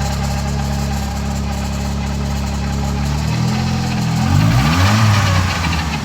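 Ford Galaxy 2.0-litre engine idling steadily, then revved up twice in quick succession about three seconds in and dropping back toward idle.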